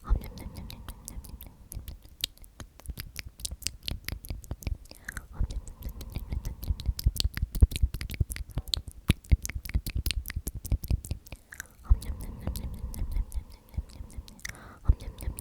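Close-miked wet mouth sounds of "omnomnom" whispered over and over for ASMR: rapid lip and tongue clicks in runs, broken by short pauses about five and twelve seconds in.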